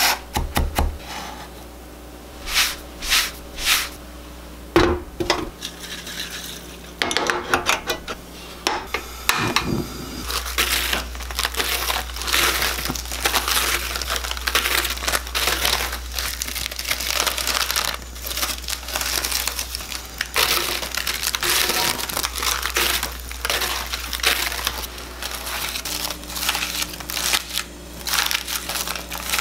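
Dry laver (gim) sheets crinkling and crackling as they are handled. It starts as a few scattered clicks, then becomes dense, continuous crackling about a third of the way in, over a steady low hum.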